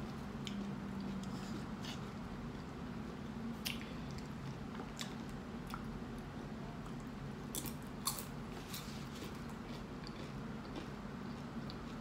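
Chewing of a burrito and tortilla chips, wet mouth sounds with scattered sharp crunches and clicks, the clearest about four and eight seconds in.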